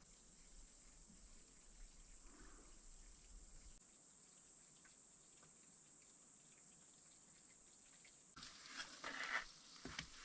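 Insects chirring in a steady, high-pitched drone that cuts off suddenly about eight seconds in, followed by a few faint rustles and clicks.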